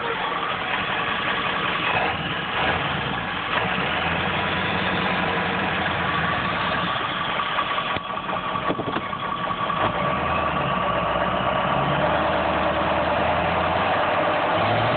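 Ford 7.3 Powerstroke turbo-diesel V8 running in a 1995 F250, mostly near idle with a steady high turbocharger whistle over the engine, rising somewhat in speed from about ten seconds in.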